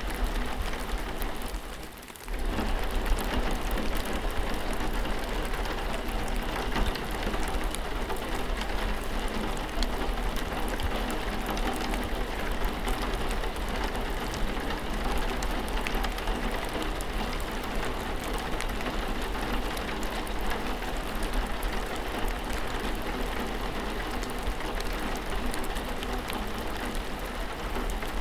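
Steady rain falling, with many fine drop ticks through the even hiss; the sound dips briefly about two seconds in, then carries on unchanged.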